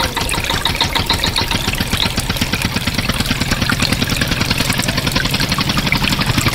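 A small engine running steadily at idle with a rapid, even chugging.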